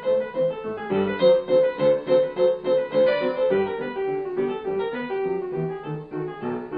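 Background piano music: notes played at a steady pulse of about three a second.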